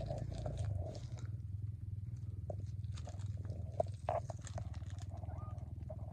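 A kitten eating close to the microphone: soft chewing with a few crunching clicks over a low, rapid purr.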